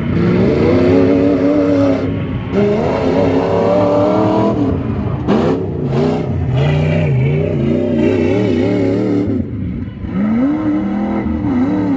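Truck engine revving hard under load, its pitch climbing, falling and wavering as the throttle is worked, with brief lifts off the throttle about two seconds in, around five seconds and near ten seconds before it revs up again.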